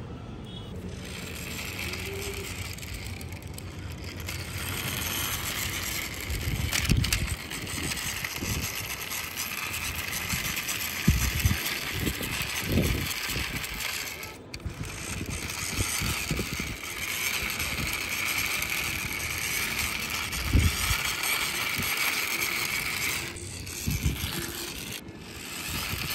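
Small plastic wheels of toy vehicles rolling and scraping along a rough wall top, a steady gritty hiss that drops out briefly twice, with a few short low thumps.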